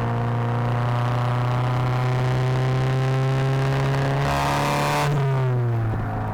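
2016 VW Mk7 GTI's turbocharged 2.0-litre four-cylinder running through a 3-inch downpipe and non-valved exhaust, its drone rising slowly in pitch under throttle. About four seconds in, a brief hiss joins it, then the revs fall away and the engine settles lower.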